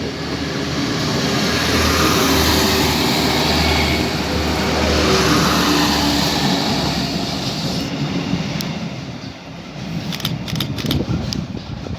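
A train running through the station: a loud steady rush with a low drone and a few steady tones, easing off about nine seconds in, then a quick run of sharp clicks and knocks.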